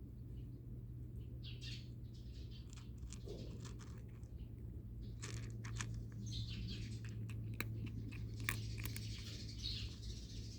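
Small birds chirping a few times over a steady low hum, with a run of sharp clicks through the middle.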